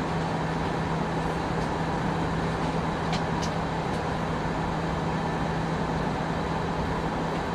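Steady airliner cabin noise inside an Airbus A319 in flight: an even rush of airflow and engine noise with a constant low hum, and a couple of faint ticks about three seconds in.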